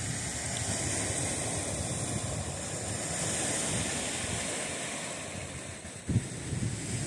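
Wind buffeting the microphone over the steady wash of the sea, swelling and easing, with a short thump about six seconds in.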